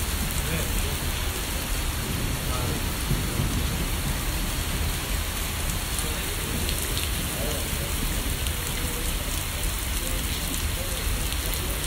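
Heavy rain pouring steadily, an even hiss of drops on wet ground.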